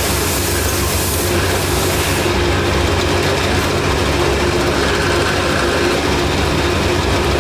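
Factory machinery running steadily, a loud low hum with a held steady tone over it; a high hiss on top stops about two seconds in.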